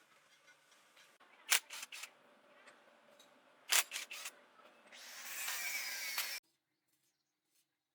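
Two quick runs of sharp clicks, about four each, then a hiss lasting over a second that cuts off suddenly.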